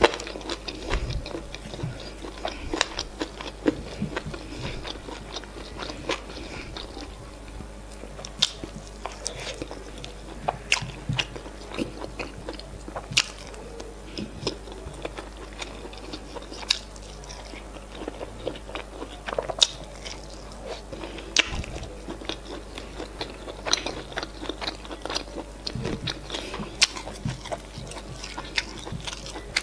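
Close-miked eating sounds: chewing, wet mouth clicks and smacks as semolina fufu and efo riro with meat are eaten by hand. The sharp clicks come irregularly and often.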